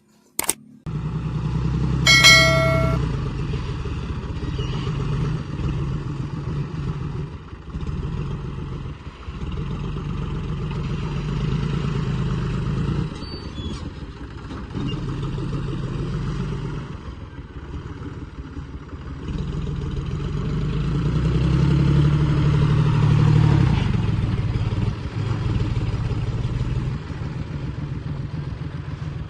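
Diesel engine of heavy earth-moving machinery running and working, its load and pitch rising and falling, pulling hardest around twenty to twenty-four seconds in. A short horn beep sounds about two seconds in.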